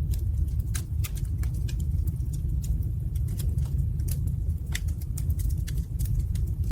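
Wood fire burning in a fireplace: a steady low rumble with irregular sharp crackles and pops, a few each second.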